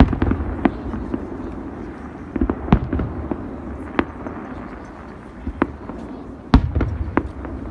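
Fireworks display: irregular sharp bangs and crackles over a low rumble, with a loud deep boom about six and a half seconds in.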